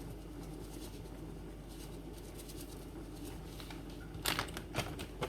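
Faint steady kitchen background noise, then, about four seconds in, a quick run of clicks and rustles from seasoning containers being handled.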